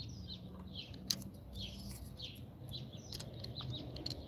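Small birds chirping over and over, with a single sharp click about a second in.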